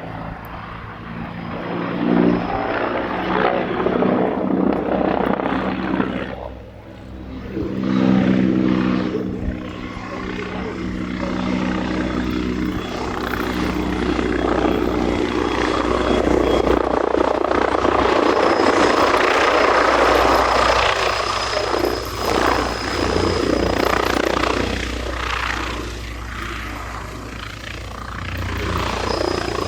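AH-129D Mangusta attack helicopter in display flight: the steady layered beat of its rotors with turbine noise. The sound dips briefly about six seconds in, then builds to its loudest about two-thirds of the way through and eases off again.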